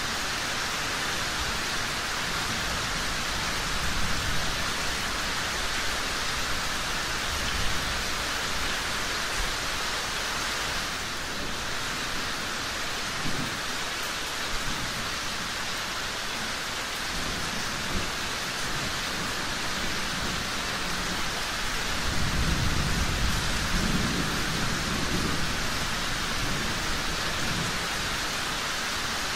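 Steady rain falling, with low rumbles of thunder now and then. The longest and loudest roll comes about three-quarters of the way through.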